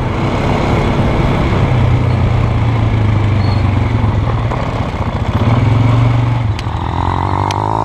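2002 Polaris Sportsman 500 H.O. ATV's single-cylinder four-stroke engine running as the quad is ridden, swelling and easing with the throttle. A few sharp clicks come near the end.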